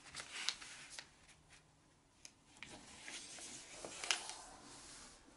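A square sheet of paper rustling as it is folded in half and the crease pressed flat, with a few sharp crinkles.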